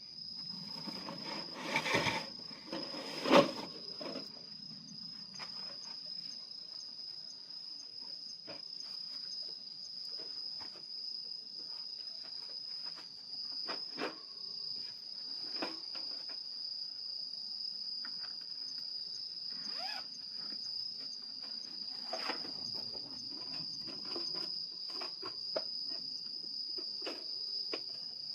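A steady high-pitched trill of night insects, with scattered crackles and pops from a wood fire burning in a small fire-and-grill stand. Two louder knocks come about two and three and a half seconds in.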